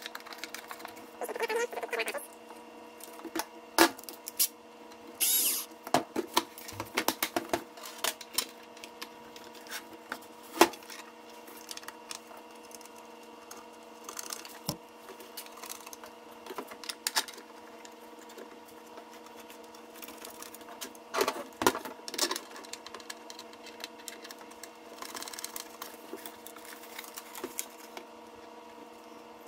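Irregular clicks, taps and knocks of ceiling fan parts and small hardware being handled and fitted back together by hand, over a steady faint hum.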